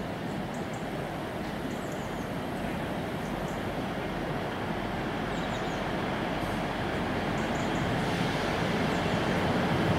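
Class 158 diesel multiple unit approaching along the track, its engine and wheels on the rails growing steadily louder as it nears.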